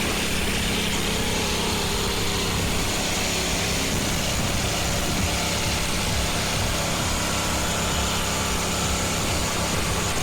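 Small engine of a log splitter running steadily at an even speed.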